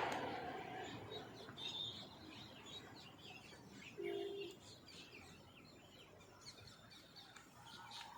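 Birds chirping and twittering faintly, with many short high calls. About four seconds in there is a brief low-pitched tone, half a second long.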